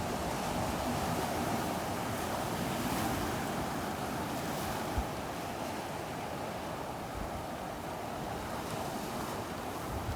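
Ocean surf washing steadily onto a beach, with wind buffeting the microphone and one brief low thump about halfway through.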